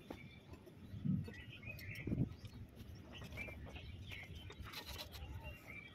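Birds chirping faintly and intermittently, with two short low sounds about one and two seconds in.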